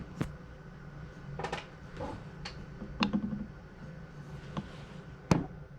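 Small objects being handled and set down on a table: scattered light clicks and knocks, with a sharper knock near the end.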